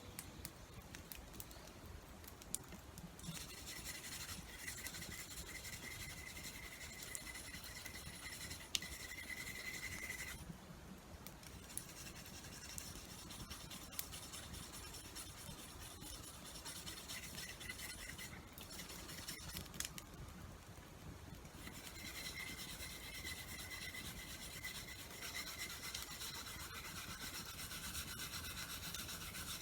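Steady rubbing, scraping noise in long stretches, pausing twice.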